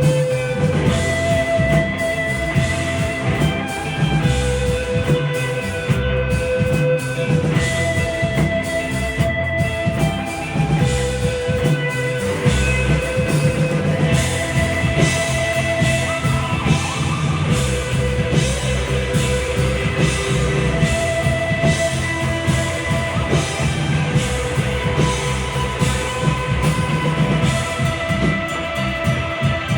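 A rock band playing live: held electric guitar notes over a steady drum kit and bass, with little or no singing.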